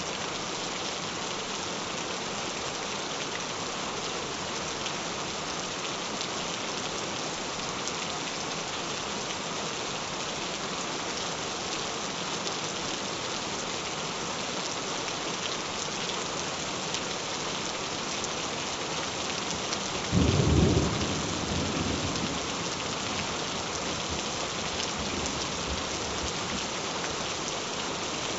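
Steady rain falling, with a single low clap of thunder about two-thirds of the way through that rumbles away over a couple of seconds.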